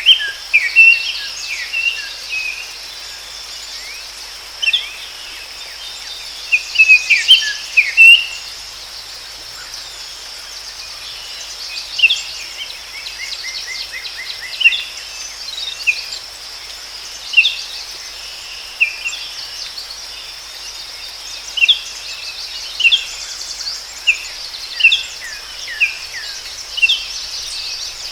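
Forest ambience: birds giving short chirps and calls every second or so, one with a quick run of even notes midway, over a steady high-pitched insect drone.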